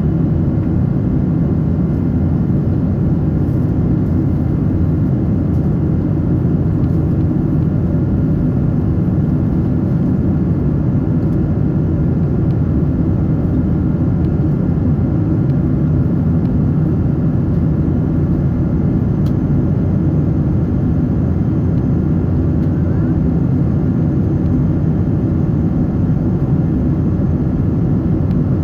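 Steady cabin noise inside a Cathay Pacific Boeing 777-300 in flight: the even rumble of its two Rolls-Royce Trent 800 engines and the airflow over the fuselage, with a few faint steady tones above it.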